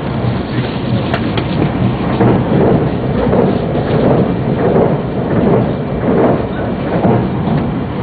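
Running noise of a Yamagata Shinkansen train heard from inside the passenger car: a steady, low rumble of wheels on snow-covered track, swelling and easing about once a second.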